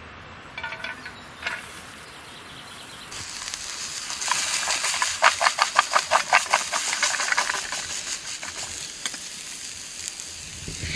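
Chopped onions and garlic starting to sizzle in a frying pan over a wood fire, the hiss building about three seconds in. A run of quick scraping strokes in the pan, about four a second, is the loudest part for a few seconds before the sizzle settles.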